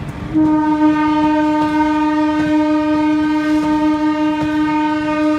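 Electric locomotive's horn sounding one long, steady blast, starting just after a brief break. Faint clicks of train wheels run underneath.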